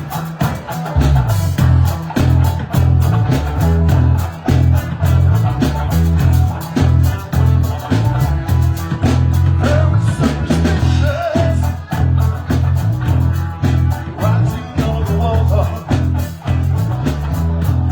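Amplified live band music: a bass line comes in about a second in over a steady drum beat, with guitar.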